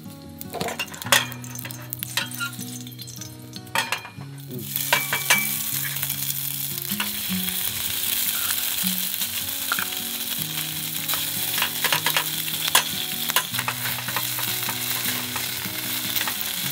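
Corned beef frying in oil in a pan on a portable gas stove. A few clicks and taps in the first seconds, then about four and a half seconds in a loud sizzle starts and keeps on, with the spoon and spatula clicking against the pan as the meat is spooned in and stirred.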